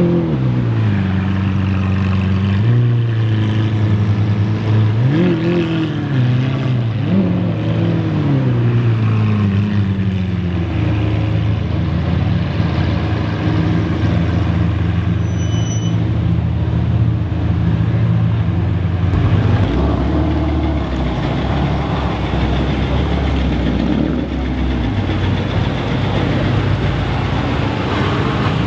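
Supercar engines at low speed in slow traffic: several short throttle blips rising and falling in pitch in the first several seconds, then steady engine running as cars crawl past, with a deeper engine coming in about two-thirds through.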